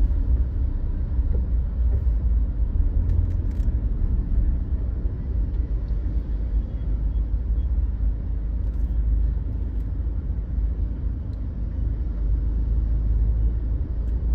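Car driving in traffic: a steady low rumble of engine and road noise.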